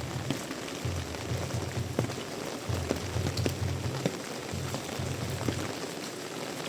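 Heavy tropical rain pouring steadily, with individual drops ticking sharply on a nearby surface every second or so, over an on-and-off low rumble.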